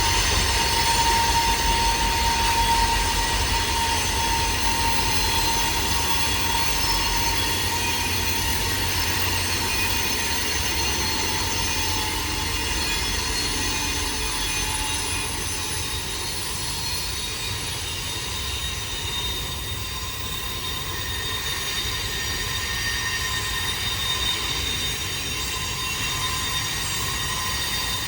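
Train cars rolling across a curving bridge, with a low steady rumble and high-pitched wheel flange squeal from the curve. The squeal shifts higher partway through.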